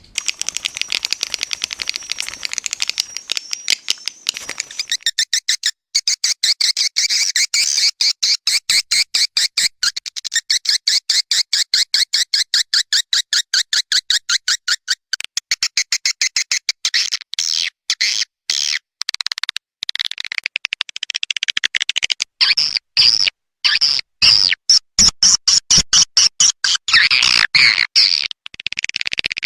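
Swiftlet calls from a lure recording: a fast run of short, high-pitched chirps, several a second. It is the 'call' sound played in a swiftlet house to draw swiftlets in to roost and nest. After about two-thirds of the way through, the chirps come in looser, more spaced clusters.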